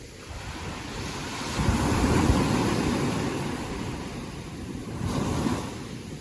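Ocean waves breaking and washing in: one big surge builds about a second and a half in and fades, and a smaller one follows near the end, with wind rumbling on the microphone.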